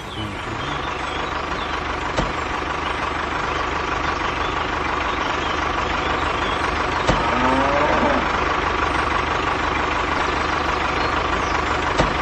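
Truck engine running steadily at idle, with a few short rising tones a little past halfway.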